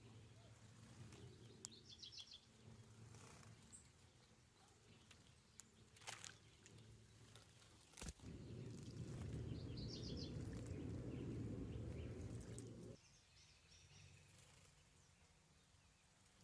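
Faint outdoor ambience with short bird chirps, about two seconds in and again around ten seconds. A sharp click about eight seconds in, then a low rumble for about five seconds.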